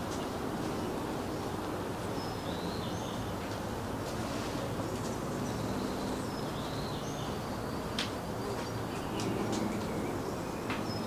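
Birds chirping in short, repeated high calls over a steady outdoor hiss, like a birdsong ambience.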